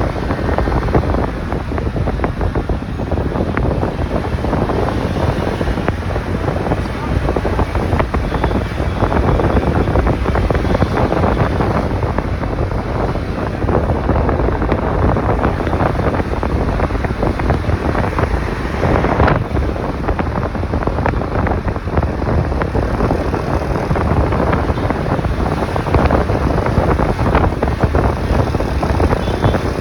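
Wind rushing over the microphone of a moving motorcycle, with the motorcycle's engine and road noise underneath; steady throughout.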